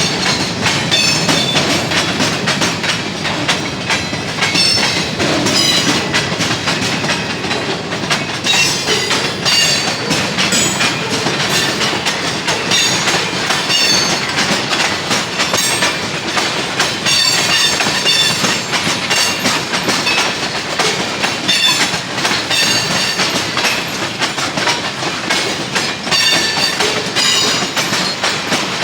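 Freight train cars rolling steadily past, wheels clacking over the rail joints, with brief high-pitched wheel squeals throughout.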